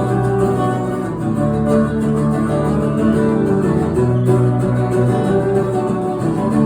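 Acoustic guitar playing chords in an instrumental passage of a live acoustic rock song, with no vocals; the chord changes about a second in and again about four seconds in.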